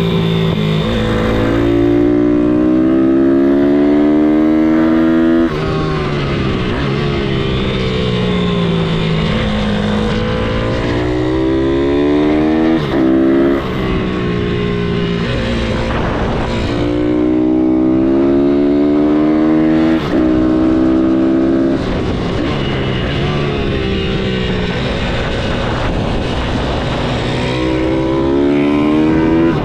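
MRF 160-R SM pit bike's single-cylinder four-stroke engine under hard acceleration through the gears: the pitch climbs, drops briefly at each shift, and climbs again. A few times it falls away as the throttle closes, then picks up and revs through the gears once more.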